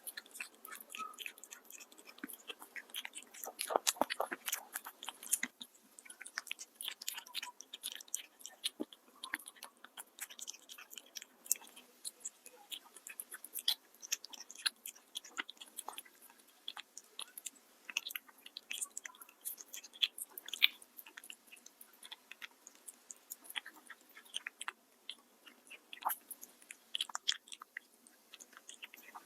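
A cat chewing and crunching food close to the microphone, a dense, irregular run of wet clicks and crunches with a louder cluster a few seconds in.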